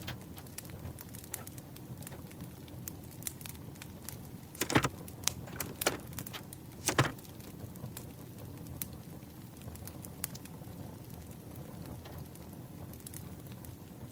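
Campfire crackling with scattered small pops over a low steady rumble. A few louder sharp handling sounds from paper and stationery between about five and seven seconds in.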